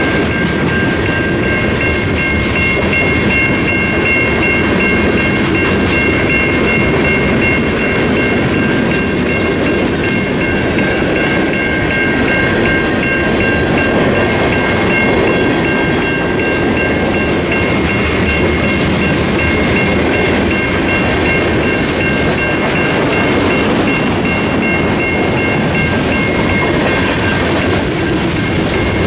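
Freight cars of a mixed freight train rolling steadily through a level crossing. A Safetran Type 3 electronic crossing bell rings throughout as a rapid, high-pitched repeating tone.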